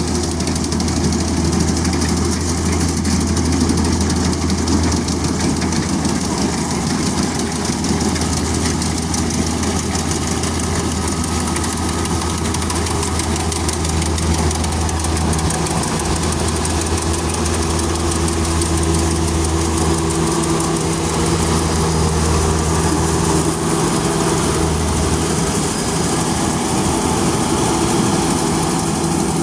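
Engine of a farm machine at the rice harvest running steadily and loudly, with a deep hum under a busy mechanical rattle; a higher steady hum joins about halfway through.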